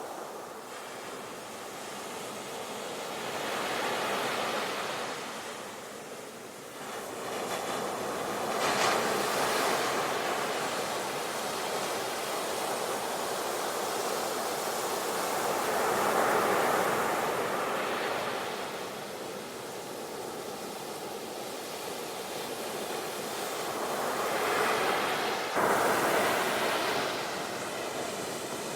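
Sea waves surging in, the surf swelling and easing every several seconds, with a sudden louder surge near the end.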